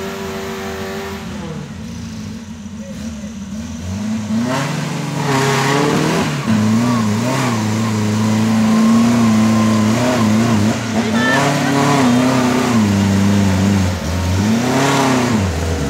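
An off-road 4x4's engine revving hard as it strains up a steep muddy climb. The pitch surges and drops repeatedly with the throttle, getting louder about four seconds in.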